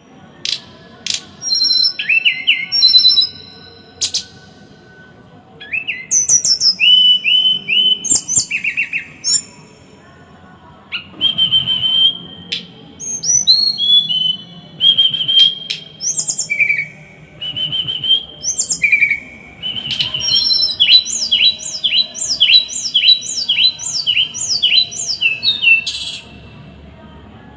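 Small songbird singing in short, sharp bursts of whistled notes and slurs, the dense, harsh 'tembakan' style of a masteran recording. Near the end comes a fast run of repeated downward-slurred notes, about two a second.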